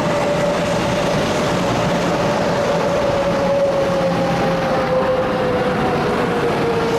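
Taiwan Railway electric commuter train running at the platform, with steady wheel-on-rail rumble. A motor whine slides slowly down in pitch as the train slows.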